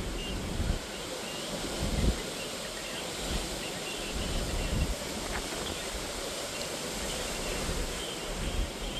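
Hurricane-force wind blowing steadily with a hiss, with irregular gusts buffeting the microphone in low rumbles, the strongest about two and five seconds in.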